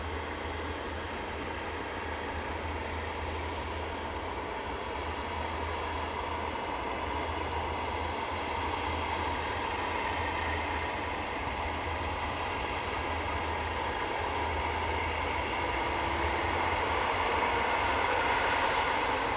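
Jet airliner engines heard from outside the aircraft: a steady whine over a low rumble, slowly growing louder.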